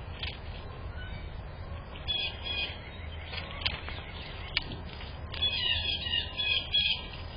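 Small birds chirping in short twittering bursts, about two seconds in and again from about five and a half seconds, with a few sharp clicks, over a steady low rumble.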